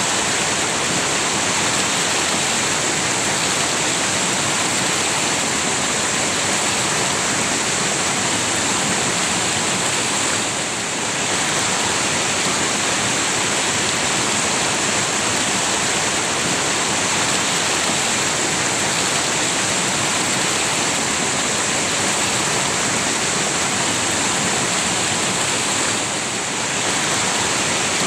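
River water rushing in a steady, even hiss, dipping briefly twice.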